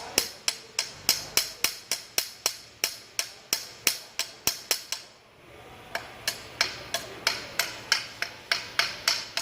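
Chipping hammer striking a freshly welded exhaust pipe in quick, even blows, about three a second, with a short pause midway: knocking the slag crust off the weld so any remaining leak can show.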